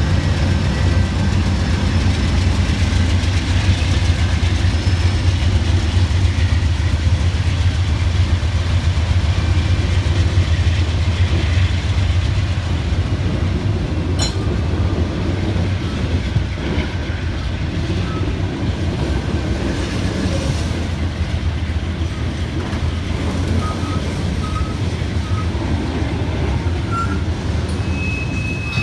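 Coal train cars rolling past, a steady heavy rumble of wheels on rail, with a few short, faint wheel squeals near the end.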